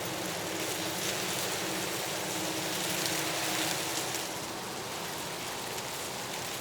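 Steady rushing water of a waterfall: an even, unbroken hiss.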